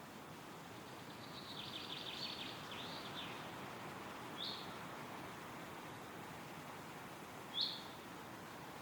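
Steady wind rustling through forest trees, with a songbird singing a short, high trilled phrase early on and then two single sharp chirps, the second, near the end, the loudest sound.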